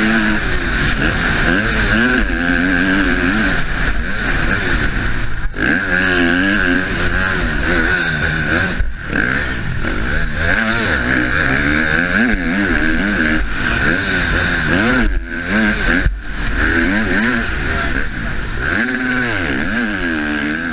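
Husqvarna motocross bike engine revving up and dropping back over and over as it is ridden hard around a track, with the throttle shut off sharply for a moment several times, heard from the rider's helmet.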